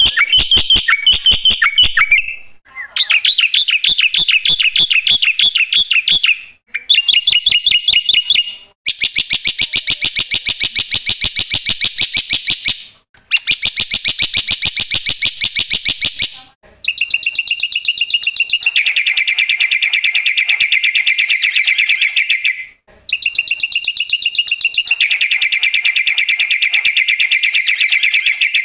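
Black-winged myna (jalak putih) singing loudly: about seven long runs of very fast repeated notes, each lasting a few seconds, separated by brief pauses.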